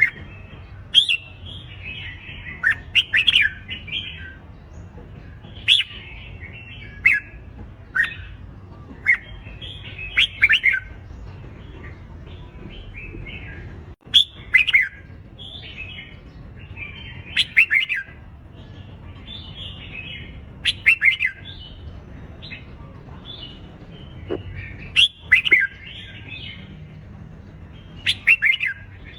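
Red-whiskered bulbuls singing their competitive fighting song: short, loud, warbling phrases with sharp high notes, repeated every second or two over a low steady hum.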